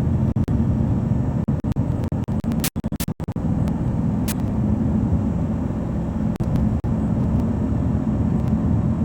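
Steady low engine and road rumble inside a moving vehicle, cutting out briefly twice about three seconds in.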